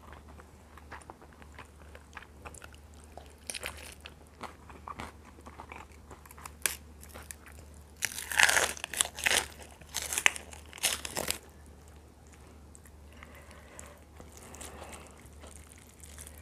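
Close-up eating sounds: biting and chewing chewy chicken neck, mostly scattered small clicks, with a run of louder crunches from about 8 to 11 seconds in.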